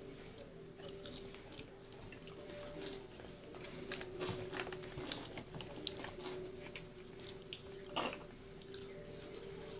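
A boy chewing and biting fried chicken fingers and French fries close to the microphone, with scattered short crunches and wet clicks. A steady faint hum runs underneath.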